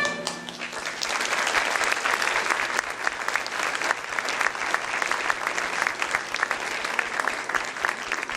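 Audience applauding, a dense patter of many people clapping that swells about a second in and starts to thin near the end.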